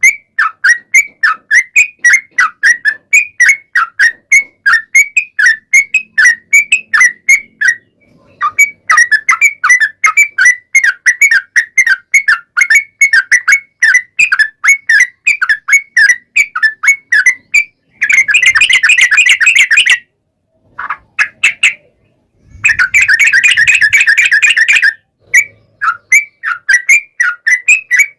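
Yellow-vented bulbul (trucukan) singing: a fast string of short bubbling whistled notes, about three to four a second, broken twice by a long rapid trill, the 'ropel panjang' run that keepers use to draw other bulbuls into song.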